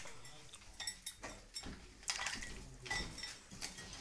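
Parrot bathing in a dish of water: irregular splashes with repeated taps and clinks against the dish, some ringing briefly.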